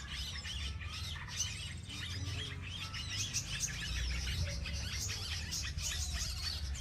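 Small birds chirping in quick, high, overlapping notes, over a low steady rumble.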